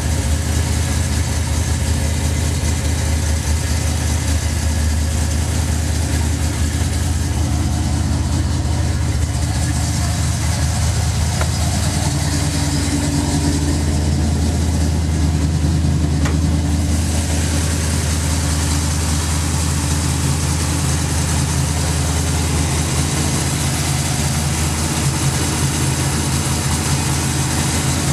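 1971 Chevrolet Nova's engine idling steadily as it warms up after a cold start, its note shifting for several seconds midway.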